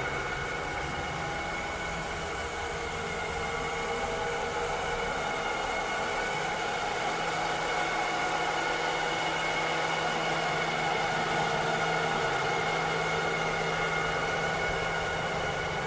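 Robot vacuum cleaner running steadily: an even motor whir with several constant tones over a steady hiss.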